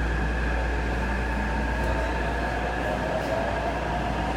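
Taipei Metro C381 subway train running, with a steady low rumble and a high electrical whine; one whining tone edges up in pitch near the end.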